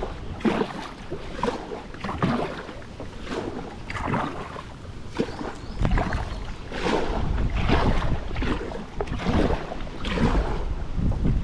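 Kayak paddle strokes in creek water, splashing and dripping in a steady rhythm of about one stroke a second.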